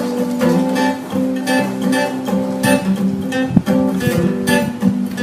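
Acoustic guitar playing an instrumental intro, picked and strummed chords in a steady rhythm, with one sharper, louder stroke about midway.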